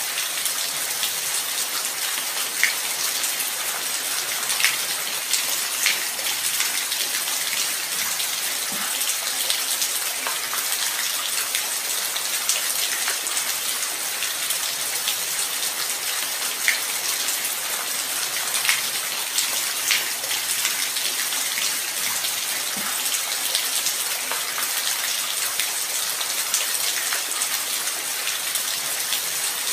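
Steady light rain: an even hiss with occasional sharper drops striking close by.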